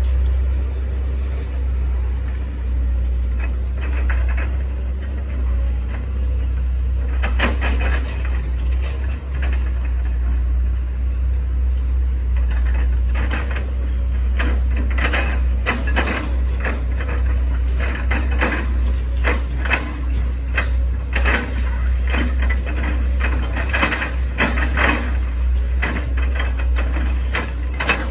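Hitachi ZX110 MF excavator's diesel engine running steadily, with repeated cracking and crunching from about seven seconds in, coming thicker in the second half, as its bucket chops through an oil palm trunk.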